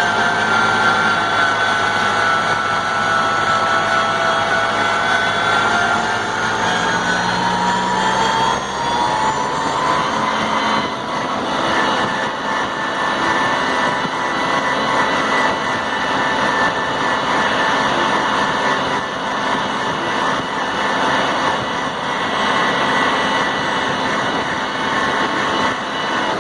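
New Holland tractor's diesel engine working hard under load on an uphill climb. Its note sags over the first few seconds, rises again about eight to ten seconds in, then runs on steadily.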